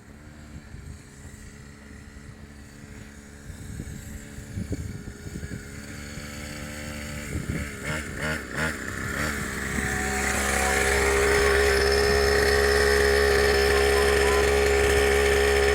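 Mini dirt bike's small engine running, growing steadily louder over about ten seconds as it comes closer, then holding loud and steady.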